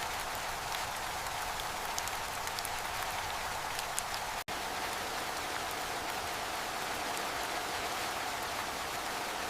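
Steady rain falling, with scattered sharp drop ticks; the sound cuts out for an instant about four and a half seconds in.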